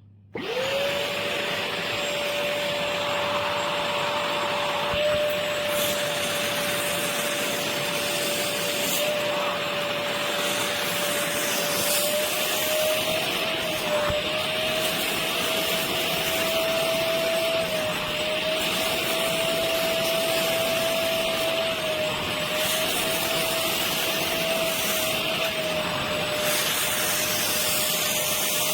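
Handheld wet upholstery vacuum cleaner switched on, its 450 W motor spinning up within a fraction of a second to a steady high whine with rushing air. The pitch wavers slightly now and then in the second half.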